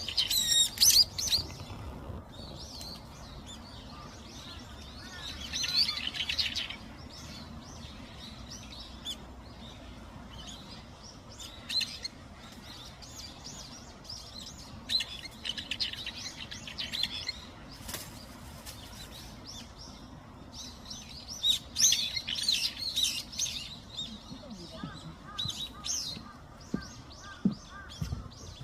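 Small wild birds chirping and calling in short bursts, with busy flurries of high chirps every few seconds.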